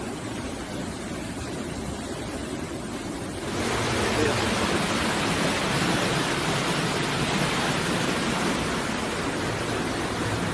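Rushing floodwater: a steady noisy rush that gets louder about three and a half seconds in.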